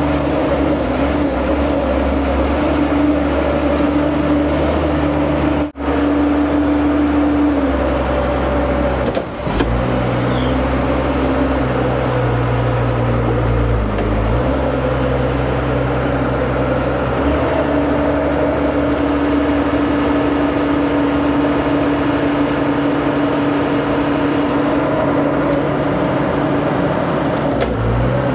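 Heavy diesel engine of earthmoving equipment running steadily under load, its pitch stepping up and down several times as the throttle and load change, with two brief breaks in the sound about six and nine seconds in.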